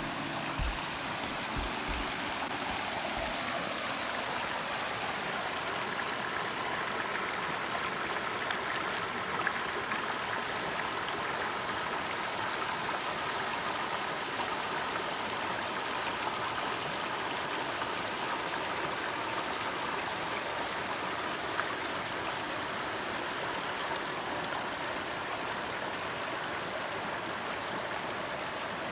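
Steady, even rushing noise like running water, with background music fading out in the first few seconds.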